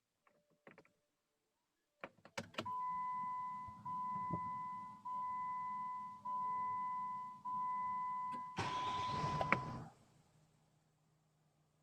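A few clicks, then an electronic dashboard chime sounding five times in a row, each ring lasting a bit over a second. Near the end the starter cranks the Jeep Commander's 3.0 CRD diesel V6 for about a second on a cold start, and it catches into a faint low idle.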